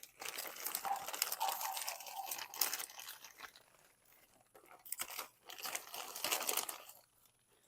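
Plastic bag and loose potting soil crinkling and crunching as they are handled while repotting, in two spells: a longer one at the start and a shorter one a couple of seconds later.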